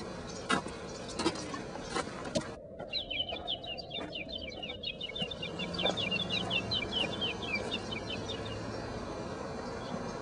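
A bird calling in a fast run of short, high chirps, starting a few seconds in and going on for about six seconds. A few sharp taps come before it.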